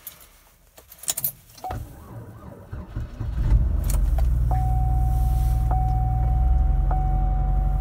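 Cold start of a 2006 Chevy Equinox's 3.4-litre V6 in deep sub-zero cold. Keys rattle at the ignition, the starter cranks briefly, and the engine catches about three seconds in, then settles into a steady idle while still not firing on all cylinders. From about halfway through, a steady high tone sounds with a click a little over once a second.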